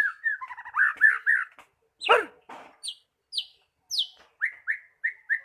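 White-rumped shama (murai batu) singing: warbled phrases, a sharp downward-swept call about two seconds in, three high falling whistles, then a run of short repeated notes about three a second.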